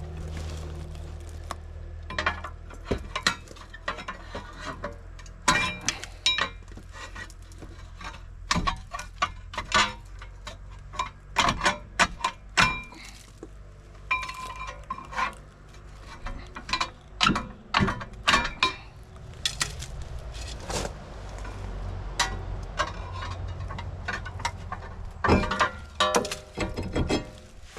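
Irregular metallic clanks and clinks of hand tools striking and scraping against metal parts, dozens of sharp knocks spread unevenly through the stretch, over a steady low hum.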